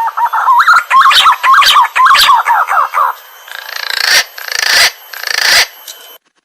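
Green pigeon (punai) calls: a quick run of whistled notes bending up and down, followed by about three harsh, rasping bursts. The sound cuts out suddenly just before the end.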